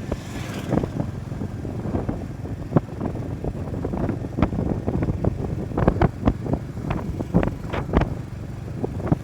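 Motorcycle running along on the move, a steady low rumble broken by many irregular buffets of wind on the microphone.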